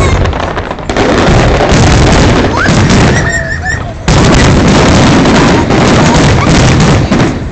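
Fireworks display: a dense run of loud booms and crackling bursts, with a sharp rise in loudness about four seconds in.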